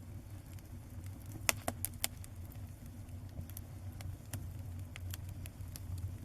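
Fire crackling: irregular sharp pops, several close together about a second and a half in and sparser after, over a steady low rumble.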